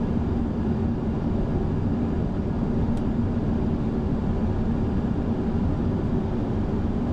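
Steady cockpit noise of an Airbus A340 on short final: rushing airflow and engine noise with a steady low hum, and a faint click about three seconds in.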